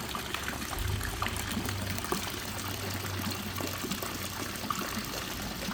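Small water fountain trickling and dripping steadily, with a low hum joining about a second in.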